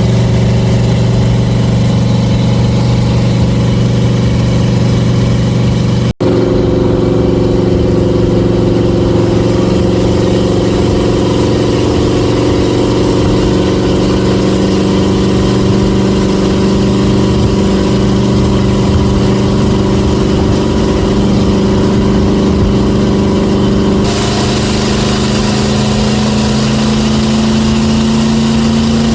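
1967 Chevrolet Bel Air's 350 small-block V8 idling steadily, in clips cut together: an abrupt break about six seconds in and a slight shift in pitch about five seconds before the end.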